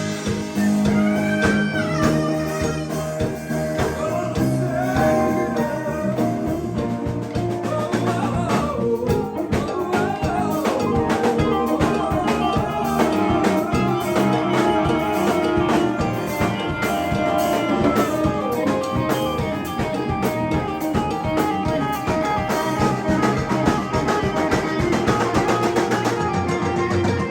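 Live band playing a blues-style jam, with guitar over a drum kit.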